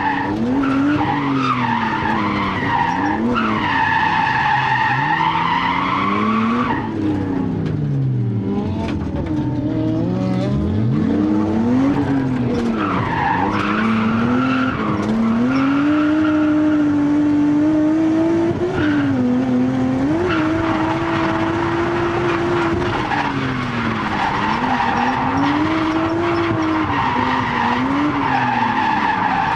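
Nissan Skyline R32's RB20DET turbocharged straight-six revving hard through a drift, with the tyres skidding and squealing. The engine pitch climbs and drops over and over and is held high for a few seconds midway.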